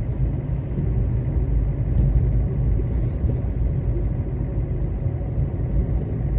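Car in motion: a steady low rumble of engine and road noise.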